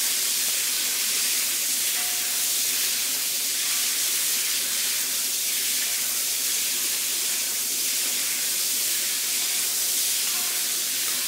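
Pork pieces sizzling steadily in smoking-hot peanut oil in a Lodge cast iron wok, searing and browning over high heat.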